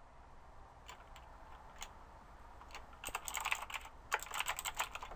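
Typing on a computer keyboard: a few scattered keystrokes, then a quick run of typing from about three seconds in.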